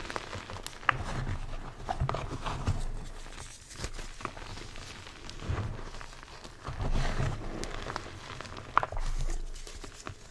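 Blocks of gym chalk being crushed by hand, crunching and crumbling in irregular bursts with soft thumps, and a sharp snap about a second in and again near the end.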